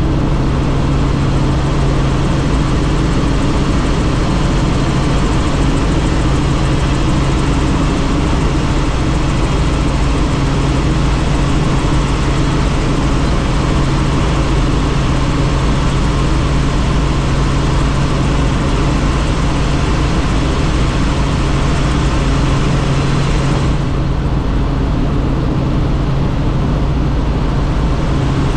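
Helicopter in flight, heard from inside a doors-off cabin: a steady drone of engine and rotor with a strong low hum under a rush of wind. The higher rush eases slightly about 24 seconds in.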